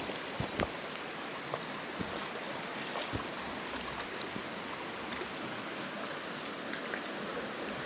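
River water rushing steadily over rocks, with a few faint clicks and knocks near the start and about three seconds in.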